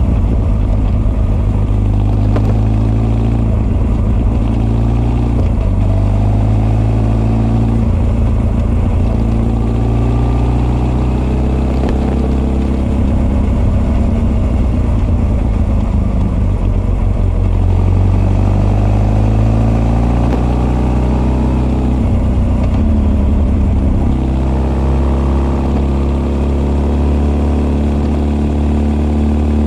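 Honda CB1300 SF inline-four engine under way, heard through its Keihin FCR41 carburettor intakes and r's gear Wyvern full exhaust. The engine pitch rises and falls several times as the rider accelerates and eases off, with the sharpest climb about two-thirds of the way in.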